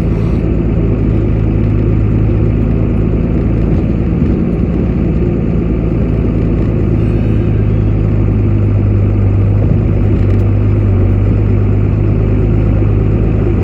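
Pickup truck engine running steadily, a constant deep hum with no change in speed.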